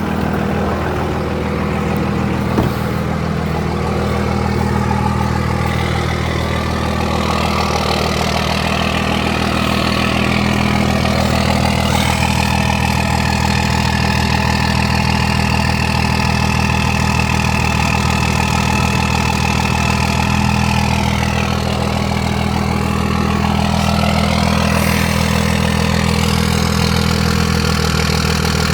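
2001 Cummins 5.9-litre inline-six turbodiesel idling steadily shortly after a cold start, a truck with just under 400,000 miles. A higher steady whine comes in about twelve seconds in and fades out around twenty-one seconds, and there is a single click near the start.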